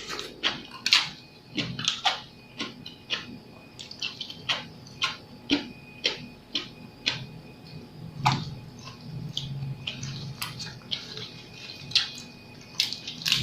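Close-miked mouth sounds of a person eating seafood papaya salad with squid and cockles: irregular wet clicks and smacks of chewing, a few every second.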